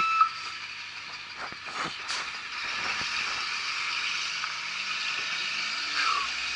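Snow plow truck working in deep snow: a steady rushing hiss, with a few rattles and clatters about two seconds in.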